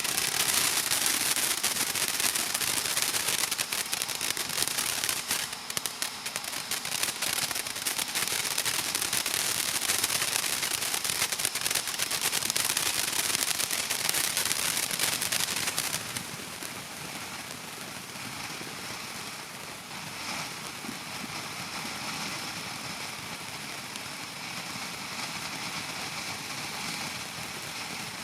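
Crackling fireworks: a dense, rapid crackle that starts suddenly and runs for about sixteen seconds before stopping, leaving a quieter steady hiss.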